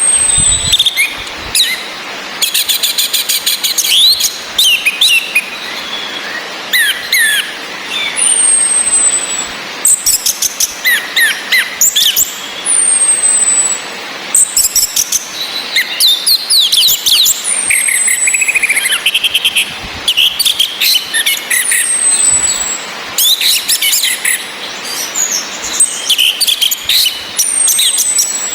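Orange-headed thrushes calling and singing: a high, thin whistle sliding down in pitch comes about every four seconds, the female's 'ngecis' call, among varied song phrases and fast chattering trills.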